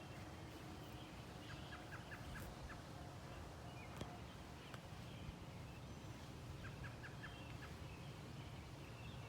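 Faint outdoor birdsong: two quick runs of about five short notes, one near the start and one past the middle, with scattered faint chirps over a steady low rumble.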